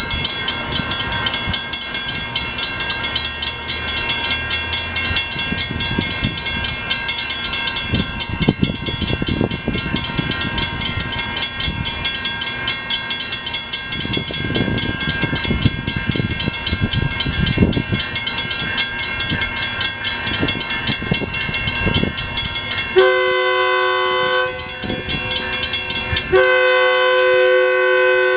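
Mechanical railroad crossing bells ringing rapidly and steadily as a Metrolink commuter train approaches, its rumble rising and falling in the middle. Near the end the train's horn sounds two long blasts.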